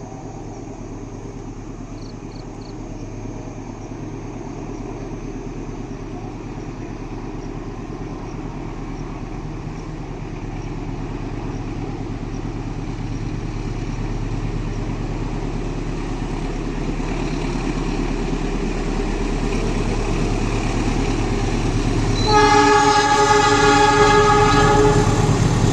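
Argo Wilis passenger train's diesel locomotive approaching, its engine rumble growing steadily louder. About 22 seconds in it sounds its horn, a long multi-tone blast that carries on past the end.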